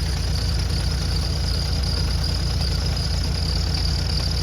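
An engine idling with a steady low rumble, and a faint steady high whine above it.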